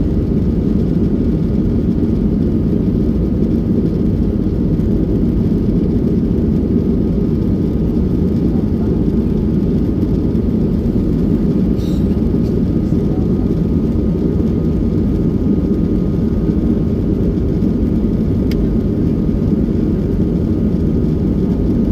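Steady low cabin rumble of a Boeing 737-800 in flight, its CFM56-7B jet engines and the airflow over the fuselage making an even noise that does not change.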